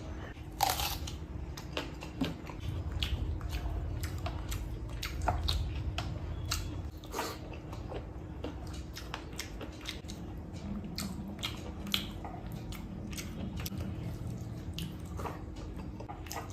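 A person chewing and biting a mouthful of chicken curry and rice, with many short wet clicks and smacks of the mouth.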